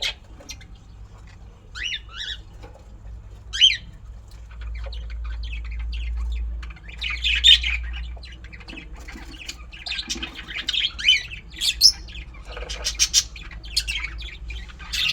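Fischer's lovebirds squawking and chirping in short, sharp calls, some sliding in pitch, scattered throughout with denser clusters in the second half.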